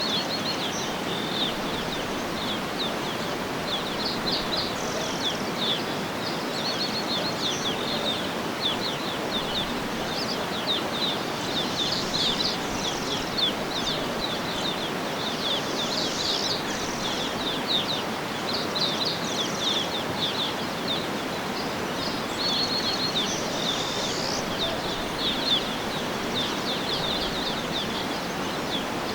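Many small birds chirping and trilling in quick high notes over a steady rushing background noise.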